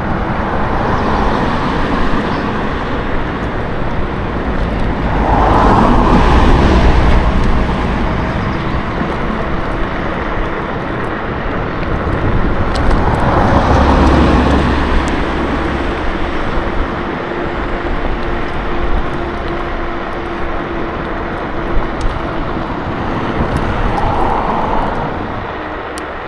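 Road traffic and rushing air heard from a moving electric scooter, a steady noise that swells twice, about six and fourteen seconds in, as motor vehicles pass close by.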